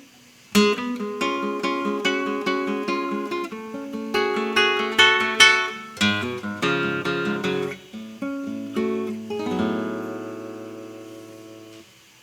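Solo classical guitar playing a passage of quick plucked notes after a brief pause, ending on a long chord that rings out and fades.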